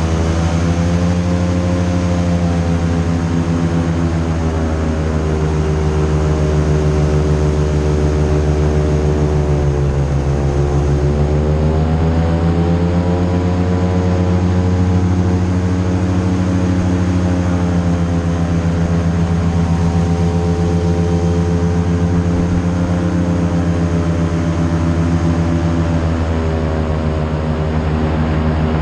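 Airboat engine and propeller running loud and steady under way; the pitch drops about a third of the way through as it slows, then climbs back up to speed.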